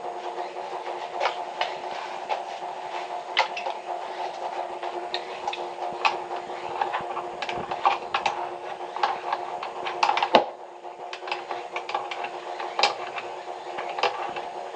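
A steady mechanical hum with many irregular clicks and knocks over it, and one louder knock about ten seconds in.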